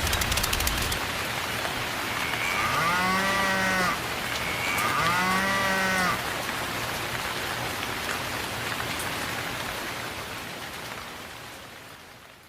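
A cow mooing twice, two drawn-out calls in quick succession, over a steady hiss that fades away near the end.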